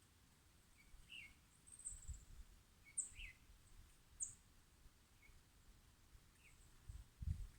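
Faint forest birds calling: short chirps repeated every second or so, with a few thin, very high notes and a brief high trill. A low rumble comes in briefly about two seconds in and again near the end.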